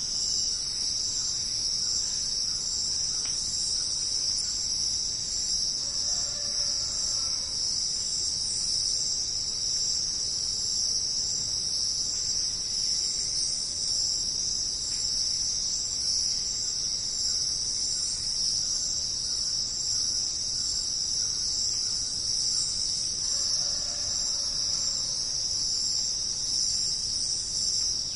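Dense insect chorus, a steady high-pitched chirring drone that never lets up. A fainter, lower sound breaks through briefly twice, about a quarter of the way in and near the end.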